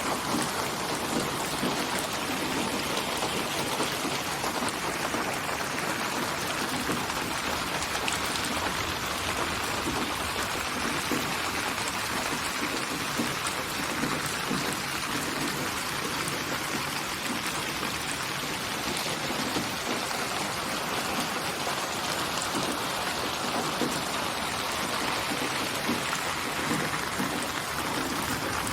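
Steady rain falling, with a dense patter of raindrops striking a surface. The hiss swells and eases slowly.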